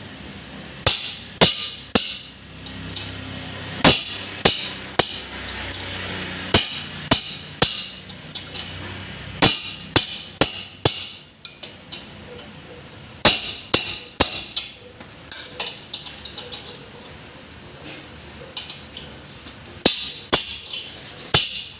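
Hammer blows on metal, irregular and repeated, some landing in quick runs, while a rear wheel axle bearing is being fitted.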